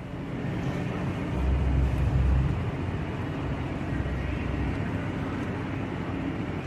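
Car engine running close by, a low rumble that swells about a second and a half in, then settles steady.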